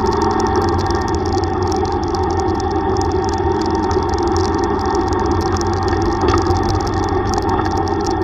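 Yamaha YTX125's single-cylinder four-stroke engine running at a steady pace while riding, under constant rushing noise.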